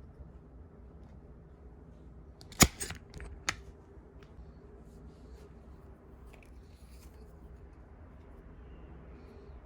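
A sharp click, then two fainter clicks within the next second, over a low steady background hum.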